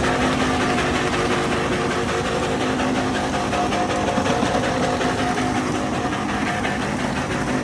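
Truck engine idling steadily, a rough, even running sound that holds without revving.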